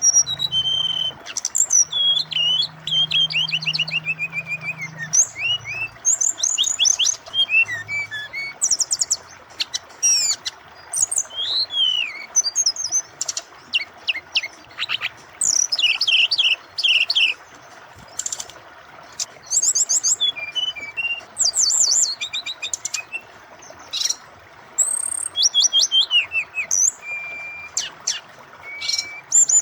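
SRDC (brown-chested jungle flycatcher) singing continuously in full voice, a rapid, varied run of high chirps, whistles and falling notes with short pauses. Under it runs a steady rush of flowing water.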